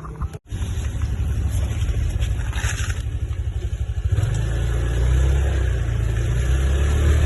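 Newly installed engine running steadily while being tuned, with a brief dropout about half a second in and getting louder about four seconds in.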